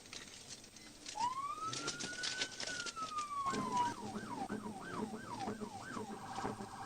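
Police car siren starting up: one slow wail rises and then falls, switches about three and a half seconds in to a fast yelp, then to a rapid warble near the end.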